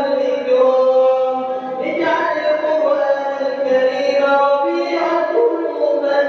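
A man's voice chanting melodic Arabic prayer recitation in the tahajjud night prayer, drawing out long held notes that shift in pitch, with a short break about two seconds in.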